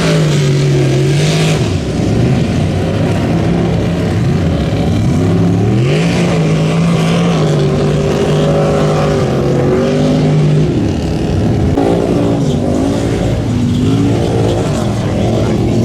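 Mud-bog truck's engine running hard, its pitch rising and falling several times as the throttle is worked.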